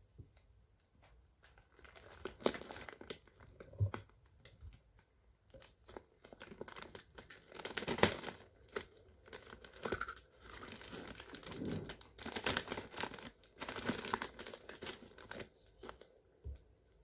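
Crinkly packaging being handled, in irregular rustling crackles that start about two seconds in, grow denser and louder through the middle, and die away near the end.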